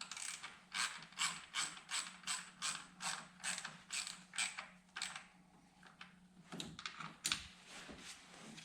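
Ratchet wrench clicking in quick back-and-forth strokes, about three a second, for five seconds. This is followed by a few separate clunks of metal tools near the end.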